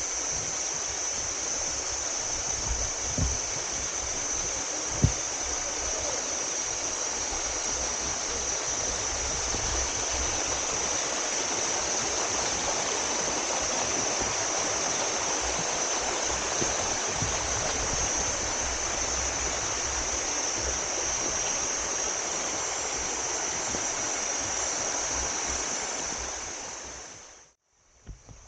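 Steady rush of a waterfall's water pouring over rock, with a couple of brief low thumps in the first few seconds; the rushing fades out shortly before the end.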